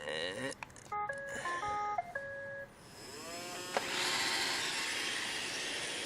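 Roomba robot vacuum playing its short electronic melody of stepped beeps, then its motors spinning up with a rising whine into a steady vacuuming hiss about four seconds in.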